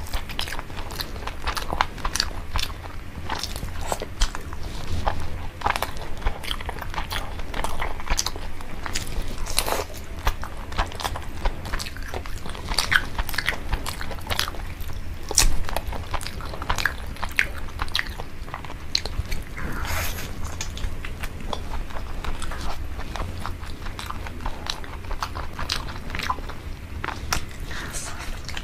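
Close-miked eating of spice-rubbed roast chicken: biting, chewing and wet mouth clicks, with meat being pulled apart by hand. The sound is a dense run of irregular sharp clicks.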